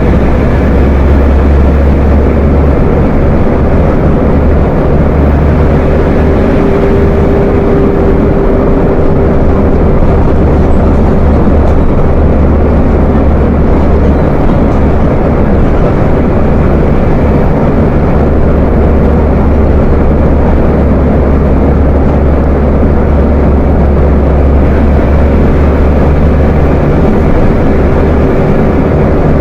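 Volkswagen 17.230 OD bus diesel engine running steadily with a deep growl, with a faint whine coming and going over it.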